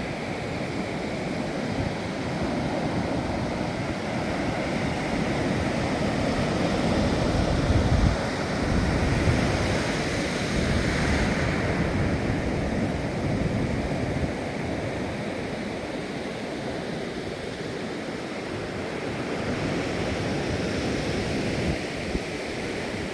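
Ocean surf washing onto a beach, a steady rush that swells louder about a third of the way in and then eases, with wind rumbling on the microphone.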